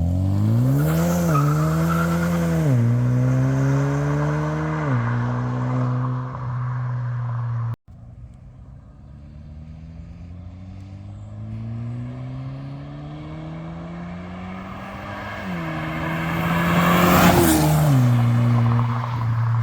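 Hyundai Sonata N Line's turbocharged four-cylinder running through a custom straight-through exhaust: revved up and held, stepped down twice and settled to idle. Later a slow, rising rev builds to a loud rushing turbo noise about three seconds before the end, then the revs drop back to idle.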